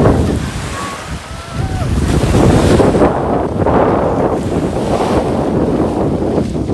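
Wind buffeting the microphone over sea waves washing onto the beach, swelling and easing, with a short lull about a second in.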